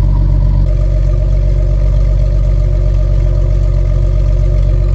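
Engine idling steadily with a deep, even rumble.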